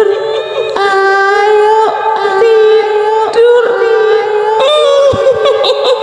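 A woman's high voice singing long held notes, each about a second, with a slight waver and small slides from one pitch to the next: the eerie crooning presented as a kuntilanak's voice.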